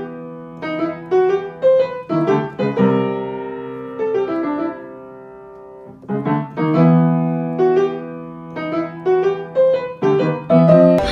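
Background piano music: short phrases of struck notes and chords, with one chord left ringing and fading away midway before the phrases start again.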